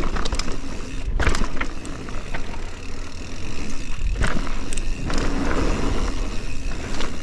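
Mountain bike riding down a dirt trail: wind rushing over the microphone and tyres rolling on dirt, with several sharp clacks as the bike rattles over bumps.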